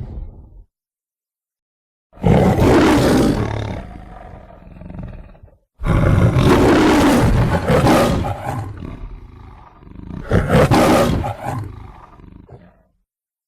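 Lion roar sound effects: the tail of one roar fades out, then after a short pause a lion roars. A second, longer roar follows, surging again partway through before it dies away.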